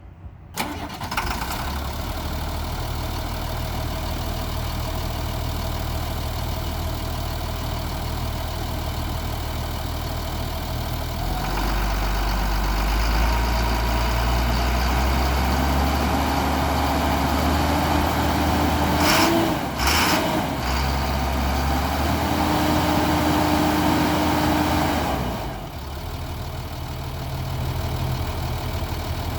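2002 Ford F650 truck engine starting about half a second in, then running at a steady idle. About twelve seconds in it runs louder and deeper, with a faint whine and a couple of sharp clicks partway through, then settles back to idle about twenty-five seconds in.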